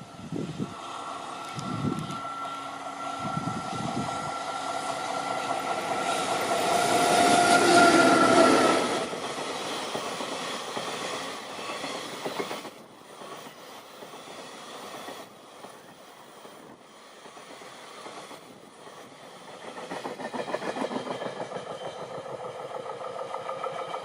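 Freight train passing: the EF65 electric locomotive approaches and goes by with a whine that drops in pitch as it passes, loudest about eight seconds in. A long rake of empty oil tank wagons follows, clattering rhythmically over the rail joints.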